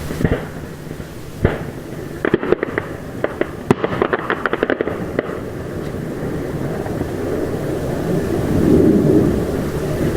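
Aerial fireworks: two sharp bursts, then a rapid string of crackling reports from about two to five seconds in, followed by a steady low rumble that swells near the end.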